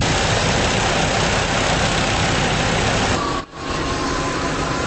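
Fire truck engine running steadily at a fire scene, with a thin steady whine joining after about three seconds and a brief drop in level about three and a half seconds in.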